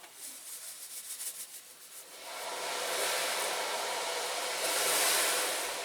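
Caustic soda paint-stripping bath fizzing with a steady hiss, starting about two seconds in and swelling near the end.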